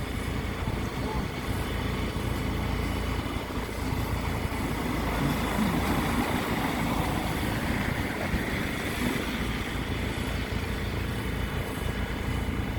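Engine running steadily, a continuous low rumble.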